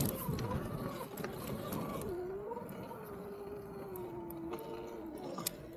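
Electric dirt bike's motor whining faintly, its pitch dipping about two seconds in and then holding steady, with a few scattered clicks.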